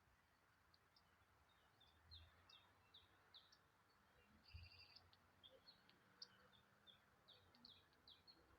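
Faint chirping of birds: many short, quick, high chirps with a couple of buzzier notes in the middle, over a quiet outdoor hush.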